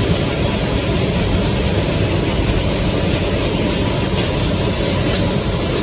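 Steady loud rush of air and engine noise inside a Boeing 737-9 MAX cabin open to the outside through a blown-out door plug, the cabin depressurized.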